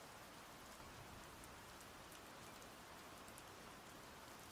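Faint, steady rain with scattered tiny drop ticks, at the edge of silence.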